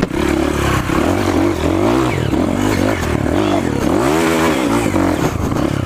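Dirt bike engine revving hard, its pitch rising and falling over and over as the throttle is worked.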